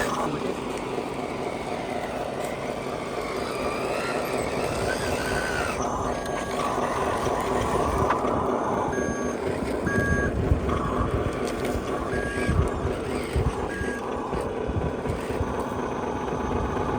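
Remote-control Scania truck running steadily, with short reversing beeps sounding repeatedly from about six seconds in.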